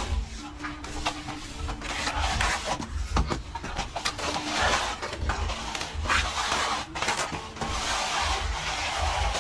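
Plastering trowel scraping and spreading plaster in repeated strokes, about one a second, with dull knocks underneath.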